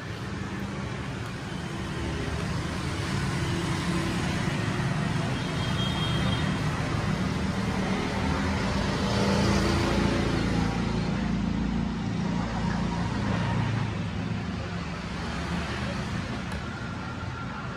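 Road traffic noise: a steady rumble that swells as a vehicle passes about halfway through, then eases off.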